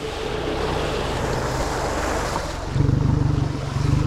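Motorboat under way on a river: water rushing along the hull and wind on the microphone, with the boat's engine drone growing much louder and steadier near the end.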